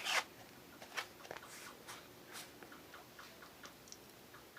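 Faint, irregular small clicks and ticks, with a short soft hiss right at the start.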